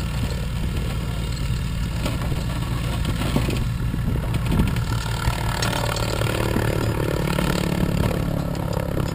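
Light aircraft piston engine idling steadily: a constant low drone, most likely the tow plane waiting ahead of the glider before the aerotow.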